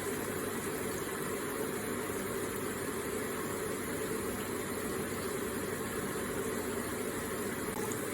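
Water from an electric water feature running and trickling steadily, an even rushing with no breaks.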